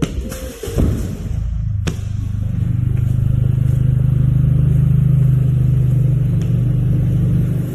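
A car engine running close by: a deep, steady exhaust drone that builds over a couple of seconds, holds, then falls away near the end, echoing in an underground car park.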